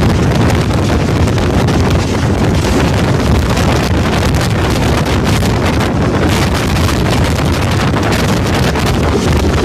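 Wind buffeting the microphone at the open door of a moving passenger train, over the train's steady rumble as it runs along the track.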